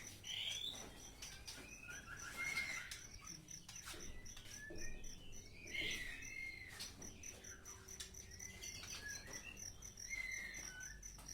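White-rumped shamas (murai batu) giving short, varied chirps and whistled calls, over an insect's steady high-pitched pulsing chirp.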